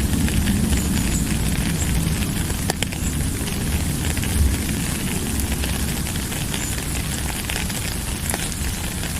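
Steady rain falling: an unbroken hiss with many sharp little ticks of individual drops and a low rumble underneath.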